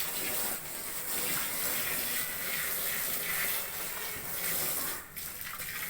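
Water pouring and splashing onto a sawdust mix for mushroom substrate as it is wetted to raise its moisture, with a brief lull about five seconds in.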